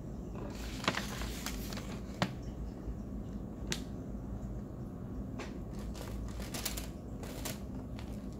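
Hard chunks of cornstarch being bitten and chewed: about a dozen crisp, irregular crunches over a steady low hum.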